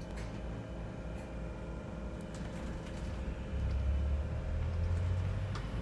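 London bus heard from inside the passenger cabin: a steady low engine and road rumble with a faint whine, the rumble growing louder about three and a half seconds in as the bus gets under way.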